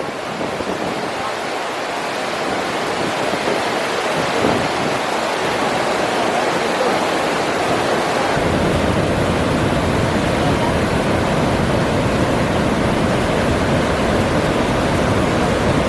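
Athirappilly waterfall rushing, a steady noise, with a deeper rumble joining suddenly about eight seconds in.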